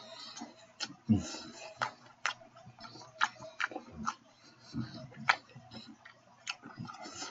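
A person chewing big bites of a ribeye steak sandwich, open-mouthed, with irregular sharp wet clicks and smacks.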